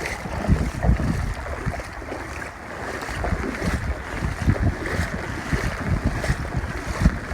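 Strong wind gusting over a phone's microphone, heard as uneven low rumbling, over the steady hiss of heavy rain.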